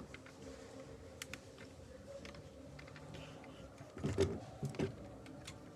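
Small plastic Lego parts clicking and clattering lightly as they are handled, a scatter of sparse clicks over a faint steady hum.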